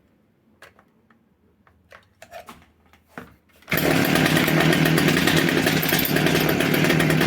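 A few light clicks and knocks, then about three and a half seconds in the Homelite i625cd trimmer's small two-stroke engine comes in loud and runs steadily at high revs. It is running on a replacement carburetor fitted because the original was faulty.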